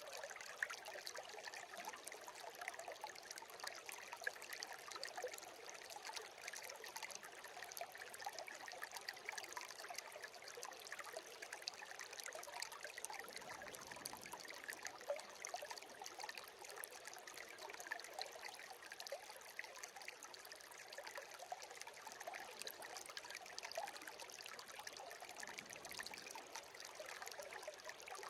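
A shallow stream babbling steadily over stones, an even rush of water with many small splashes and trickles.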